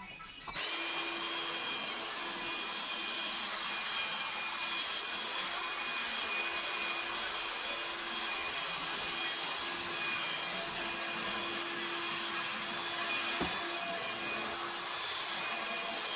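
An electric detailing machine switches on suddenly about half a second in and runs steadily. It makes an even rushing noise with a steady hum and a high whine over it.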